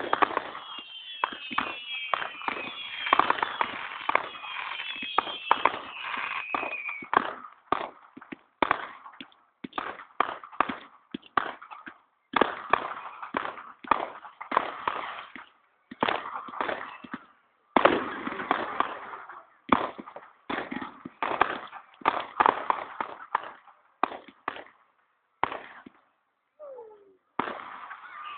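Fireworks going off: many sharp bangs and crackles in quick volleys, with brief pauses between them. In the first seven seconds several whistles fall in pitch together.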